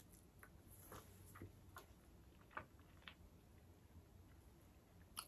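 Near silence with faint, scattered small clicks, the sharpest about two and a half seconds in and another near the end.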